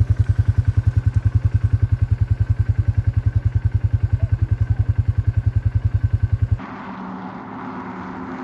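ATV engine idling close by, a loud, even low pulsing about eight beats a second. It cuts off abruptly about six and a half seconds in, giving way to a quieter, steadier engine drone with hiss.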